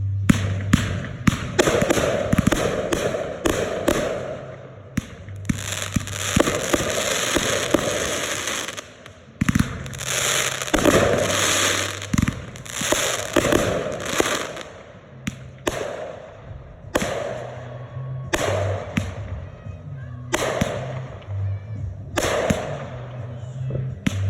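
Consumer fireworks going off in a show: many sharp bangs in quick succession, with longer stretches of dense crackling, over music with a steady low bass line.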